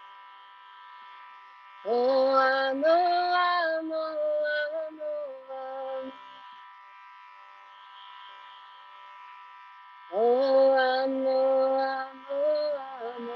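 Kirtan chanting: a voice sings two long melodic phrases, each about four seconds, a few seconds apart, over a steady buzzing drone that holds throughout.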